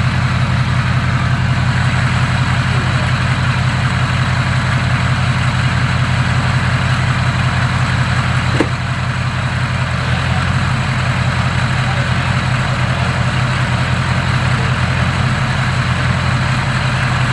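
Ford Powerstroke V8 turbo-diesel idling steadily after its first start following a rebuild. A single short click comes about halfway through, and the engine runs slightly quieter after it.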